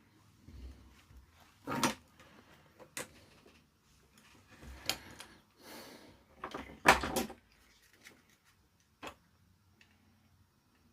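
Workbench handling noise: a series of knocks and clatters as things are picked up and put down, the loudest about seven seconds in, then a single short tap near nine seconds.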